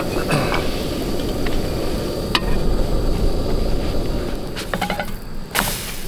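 Pancake batter frying in an oiled pan on a camp stove, over a steady low rumble, with a few light clicks of a utensil against the pan and a short harsh scrape near the end.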